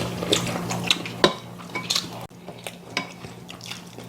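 Spoons and chopsticks clicking against bowls and a stew pot while eating, a scatter of short sharp clinks. A steady low hum underneath cuts off suddenly a little past halfway.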